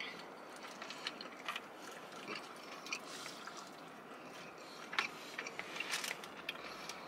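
Fried chicken wings being bitten and chewed close to the microphone: scattered small crunches and wet mouth sounds, with a few sharper crunches about five and six seconds in.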